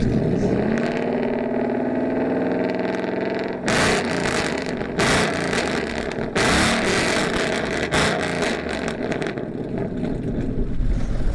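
Ford Mustang engine starting up: it fires, flares and settles into a fast idle with vapour from the exhausts, then gives several loud, short revs about a second apart.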